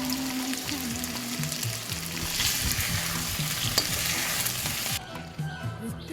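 Food sizzling as it fries in a pan, over soft background music; the sizzle cuts off abruptly about five seconds in.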